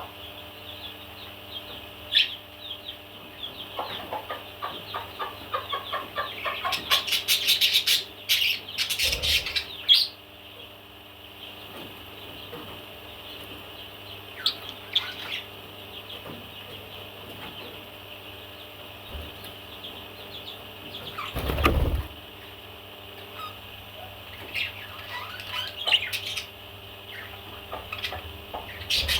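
Pet parrot making short chirps and calls and flapping its wings, with a quick run of clicks and rustles about a quarter of the way in and a louder burst of wing flapping about three-quarters of the way through.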